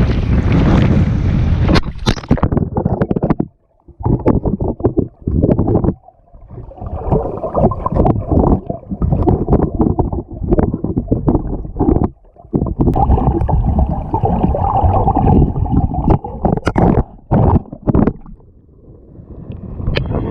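Strong gusty wind buffeting the camera microphone: loud, rough rumbling that repeatedly cuts out and crackles back in.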